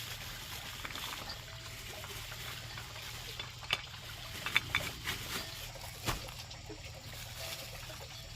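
Rain pattering steadily, with a handful of sharp taps or knocks between about three and a half and six seconds in.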